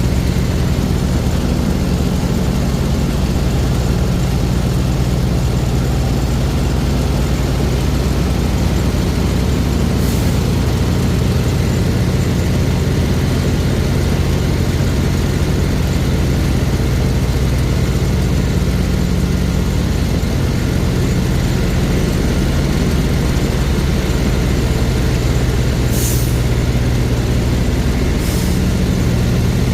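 Heavy truck engine running steadily while driving, a deep hum that rises and falls slightly in pitch. It is broken by three short hisses of air, one about a third of the way in and two near the end.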